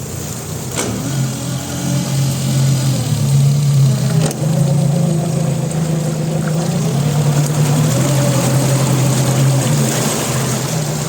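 Fuel-injected Yamaha F50 four-stroke outboard motor running, its speed picking up a little over the first few seconds and then holding steady. Two sharp clicks come through, about a second in and about four seconds in.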